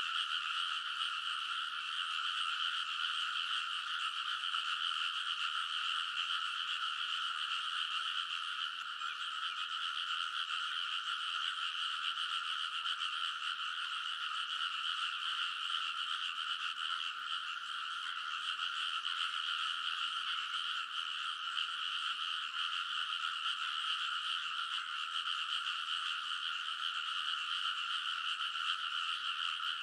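A large chorus of frogs croaking together, so dense that the calls merge into one unbroken, steady din.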